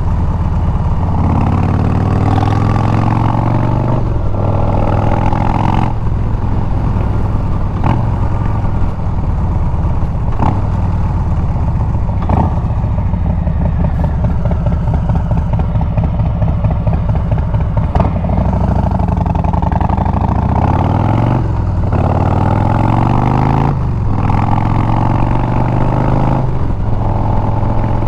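Harley-Davidson Milwaukee-Eight 114 V-twin running through a Bassani exhaust while riding, the engine note rising and falling with the throttle. It breaks off briefly several times and climbs in pitch about two-thirds of the way through.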